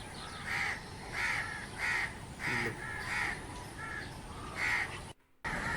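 A bird giving harsh calls over and over, about one and a half a second, with a brief cut to silence near the end.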